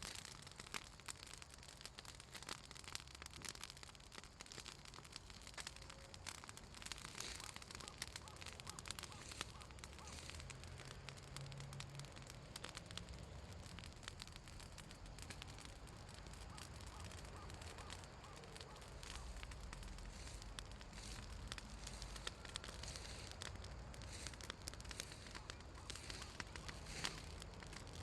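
Pruned southern magnolia branches burning in an open fire, crackling continuously with many small irregular snaps and pops. The oil in the magnolia wood and leaves makes it crackle.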